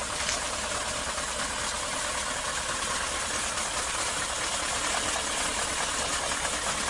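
Heavy diesel engine running steadily at idle.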